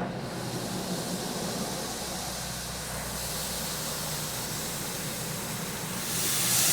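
Automatic car wash spraying wax onto the car: a steady hiss of spray that grows louder about six seconds in.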